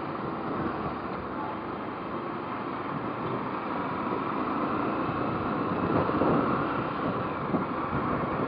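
Motorcycle running at road speed, with steady wind rushing over the rider's microphone.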